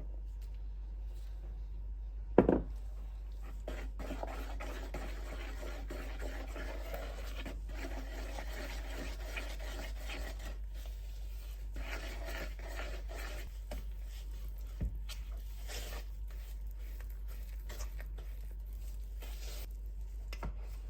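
Kitchen handling sounds: a single sharp knock about two seconds in, then stretches of rubbing and scraping with scattered light clicks, over a steady low hum.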